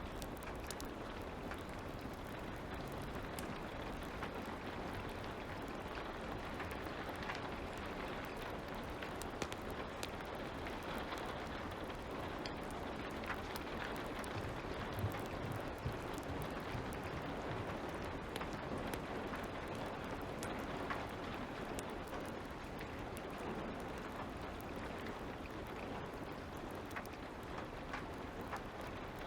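Light rain falling steadily, with scattered small pops and crackles of a wood fire.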